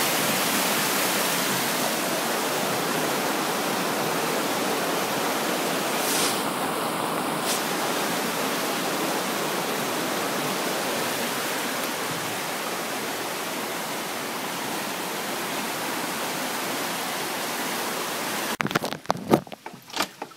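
Steady rushing of floodwater, an even noise. Near the end it cuts off abruptly, followed by a few sharp knocks.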